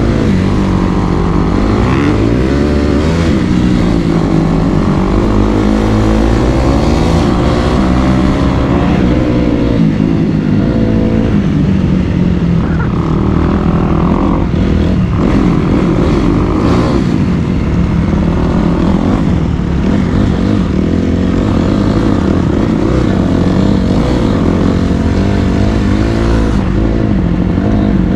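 Dirt bike engine being ridden, its revs rising and falling with throttle and gear changes.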